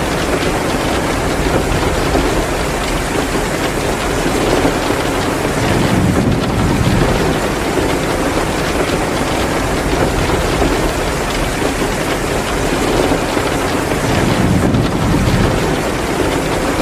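Steady heavy rain, mixed with the crackle of a wood fire in a fireplace.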